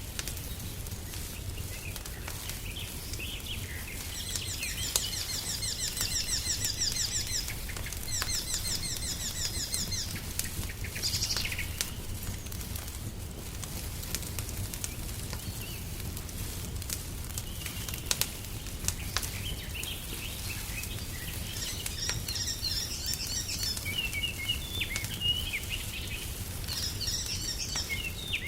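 Songbirds singing in several bouts of fast, high trills over a fireplace crackling, with scattered sharp pops and a steady low rumble.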